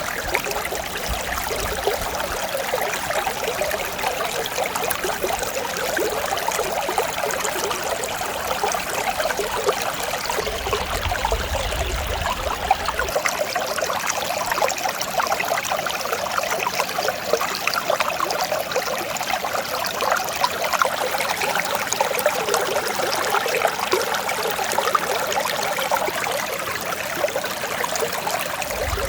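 Mountain stream flowing steadily, an even, unbroken babble and trickle of running water.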